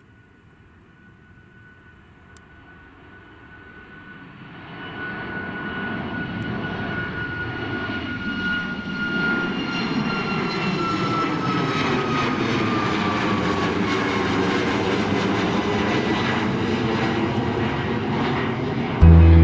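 Jet airliner passing, its engine noise swelling over several seconds into a loud steady rush. A high whine in the noise slowly falls in pitch as the aircraft goes by. Music cuts in abruptly at the very end.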